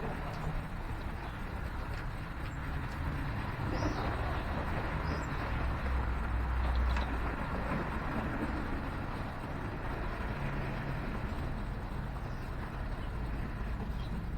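Steady rumble of city traffic, swelling as a vehicle passes about six to seven seconds in, with a few faint bird chirps.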